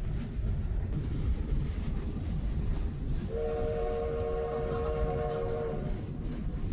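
Train rolling with a steady low rumble. About halfway through, the locomotive whistle sounds one chord blast of a couple of seconds.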